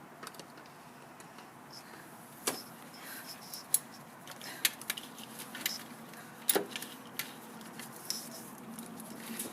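Irregular light metallic clicks and taps from hand tools and parts being handled in a car engine bay while a clamp is worked loose.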